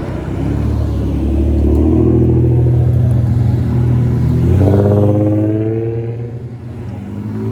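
VIP-style custom sedan's engine through an aftermarket exhaust as the car drives out, a steady low drone whose revs rise about four and a half seconds in, then fade near the end.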